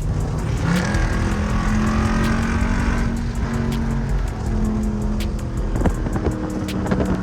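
Car engine running, rising in pitch about a second in as it accelerates, mixed with background music with a steady beat.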